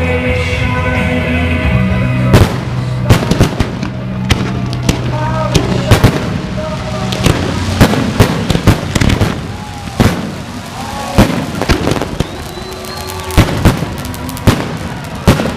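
Fireworks going off in many sharp, irregular bangs, with music playing underneath through roughly the first half.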